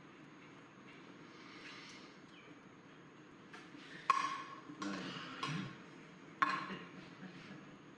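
Two sharp knocks of hard objects, each with a short ringing tone, about four seconds in and again about two and a half seconds later, with brief rustling or scraping between them.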